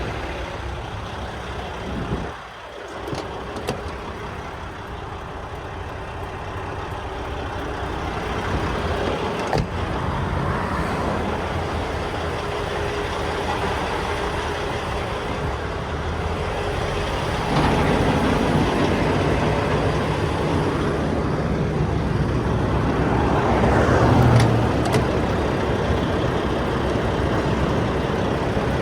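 Semi truck's diesel engine running with road noise while driving, dipping briefly about two seconds in and getting louder again about seventeen seconds in.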